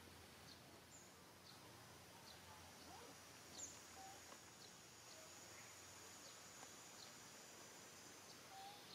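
Faint ambience of small birds giving short, high chirps about once a second, with a thin, steady high insect buzz that comes in a few seconds in.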